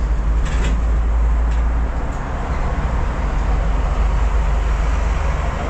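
Steady low rumble of a car's engine and tyres heard from inside the cabin while driving, with a few faint ticks in the first two seconds.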